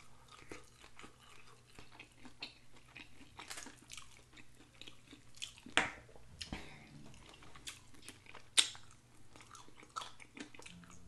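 A person chewing chicken wings, with irregular wet mouth clicks and smacks. A few louder smacks stand out about six and eight and a half seconds in.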